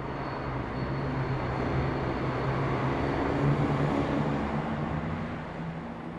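A diesel multiple unit passenger train passing: a steady diesel engine hum and the rumble of the wheels, growing louder to its loudest a little past halfway and then fading away.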